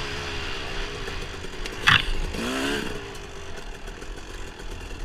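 Dirt bike engine running, with a single sharp knock about two seconds in, then a short rev rising in pitch before the engine drops to a quieter, lower run.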